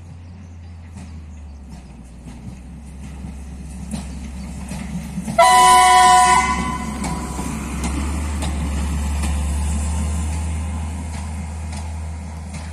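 A passing train sounds its horn once, a two-note chord lasting about a second, around five seconds in. The rumble of the train on the rails swells as it goes by and then fades.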